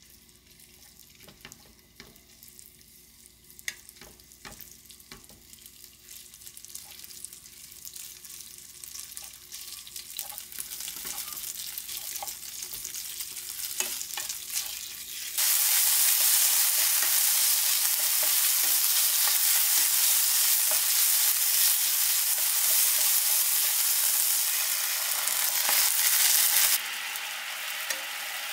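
Chicken strips frying in oil in a nonstick pan, stirred with a wooden spatula: a faint sizzle with scattered taps of the spatula against the pan, slowly growing louder as the oil heats. About halfway through it jumps suddenly to a loud, steady sizzle, which drops back somewhat near the end.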